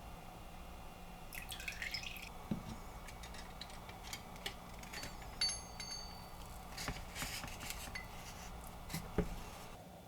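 Light clinks and taps of small metal parts and glassware, handled during a plating step, with one brief clear ringing ping about five and a half seconds in. A faint steady low hum lies underneath.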